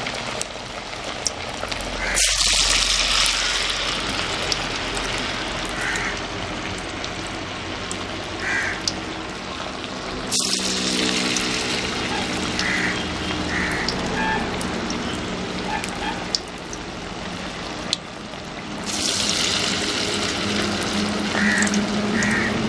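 Chicken vadas sizzling in hot oil, a loud hiss that surges suddenly three times as fresh batches go in and then settles. Short bird calls, ducks and crows, sound in the background.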